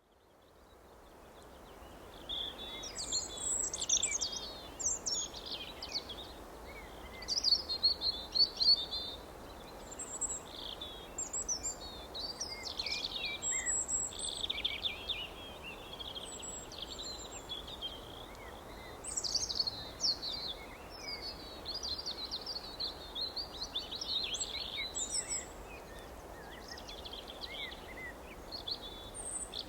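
Several songbirds chirping and singing in quick, overlapping high phrases over a steady background hiss. The sound fades up from near silence over the first couple of seconds.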